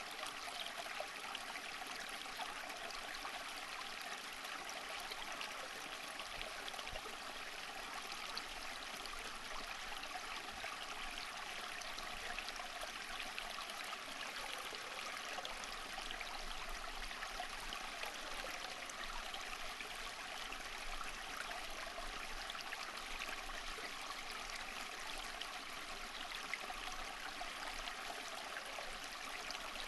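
Flowing water of a small stream, a steady babbling rush with fine splashes.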